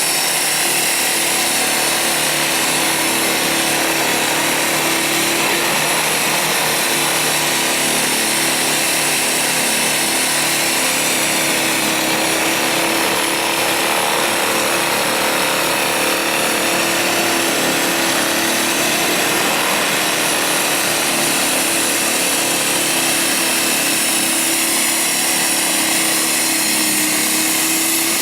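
Blizzard Ex1600win electric snowblower running steadily, a constant whine from its motor and auger.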